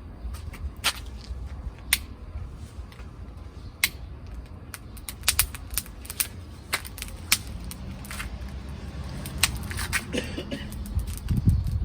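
Wood campfire crackling: irregular sharp pops and snaps from the burning firewood over a low steady rumble.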